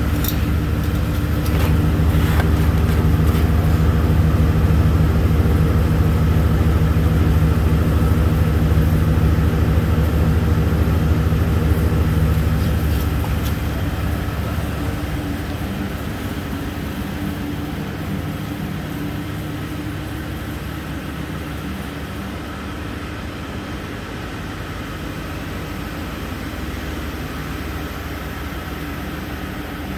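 2014 GMC Savana 2500's 6.0L V8 engine running: louder for the first dozen seconds or so, then easing down over several seconds to a steadier, quieter idle.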